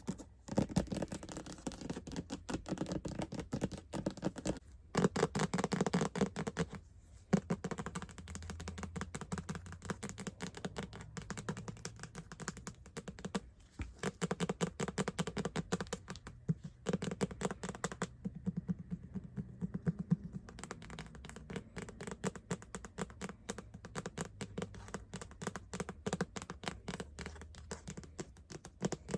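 Fast, continuous tapping with some scratching on hard objects close to the microphone, many taps a second, broken by a few brief pauses.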